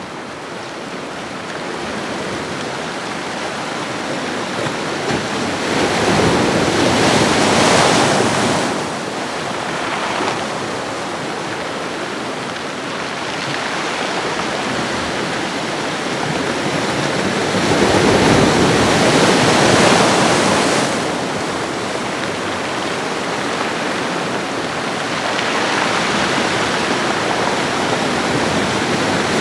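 Ocean waves washing onto a shore in a continuous surf hiss, swelling louder as waves break about six seconds in, again around eighteen seconds and near the end, then easing between.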